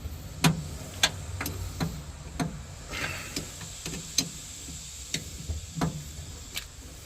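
A series of sharp clicks and taps, unevenly spaced at about one to two a second, over a low steady hum.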